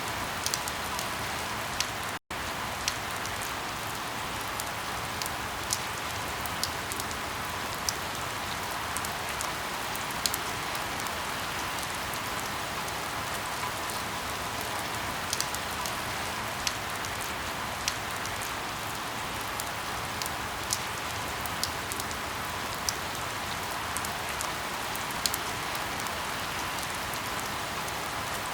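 Steady rain falling, with sharp individual drop impacts ticking out now and then over the even hiss. The sound cuts out for a split second about two seconds in.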